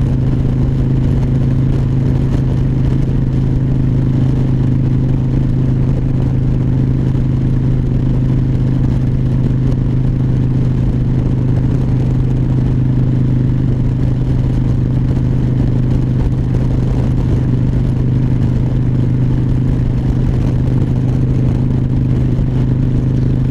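2004 Harley-Davidson Dyna Wide Glide's Twin Cam 88 V-twin running at a steady highway cruise: a constant low engine hum that holds one pitch throughout, with no shifting or revving.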